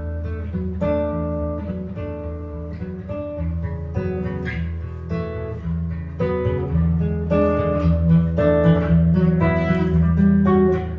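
Jazz guitar improvising: a stream of plucked single notes and chords over held low notes, swelling louder in the second half.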